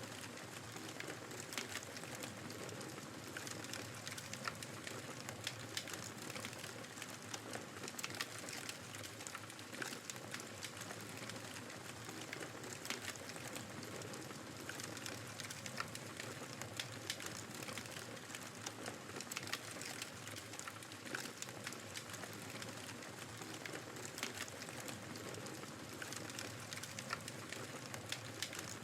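Wood fire crackling in a fireplace, with frequent irregular sharp pops and snaps, over a steady rushing noise of snowstorm wind.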